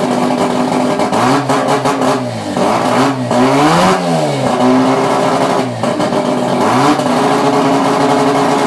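Twin-turbo bridge-ported Mazda 13B rotary engine revved up and down several times, settling back to a steady lower speed in between.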